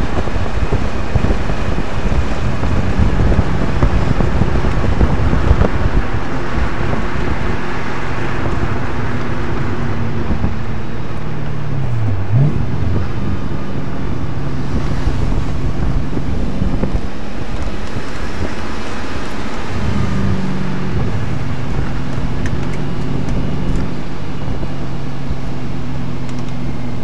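Audi RS4's 4.2-litre V8 running hard at track speed, heard from inside the cabin over wind and road rumble. About halfway through, the engine note drops sharply and snaps back up once. Later the note steps again and settles into a steady pull.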